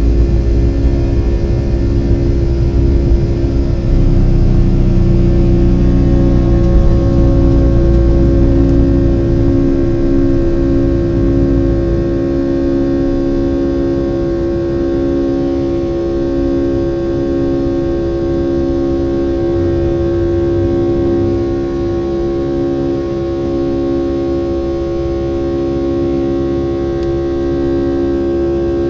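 Boeing 757-200 jet engines at high power heard from inside the cabin: a steady whine of several held tones over a heavy low rumble. The rumble fades and the sound gets quieter about ten seconds in, while the whine carries on.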